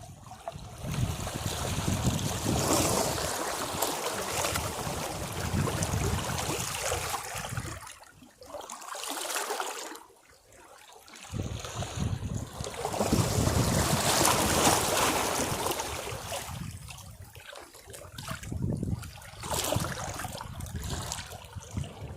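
Sea waves washing against rocks, the rushing water swelling and fading in surges every few seconds. There is a short lull about eight seconds in, then a bigger surge.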